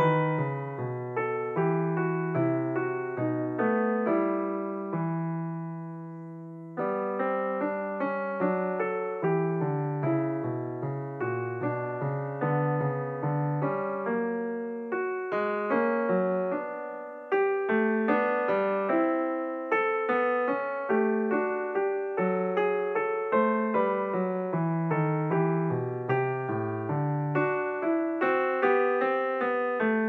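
Background solo piano music, a steady flow of notes that twice settles on a fading chord before the playing picks up again.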